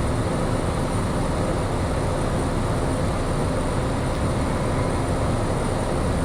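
Engine and propeller of a Piper light aircraft running steadily in flight, heard as an even drone inside the cockpit.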